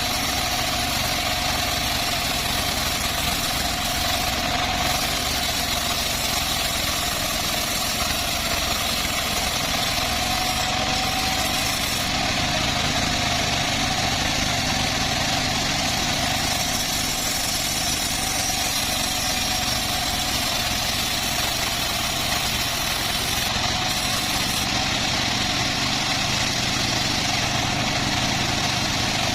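Homemade band sawmill running steadily, an engine-like drone with a steady whine.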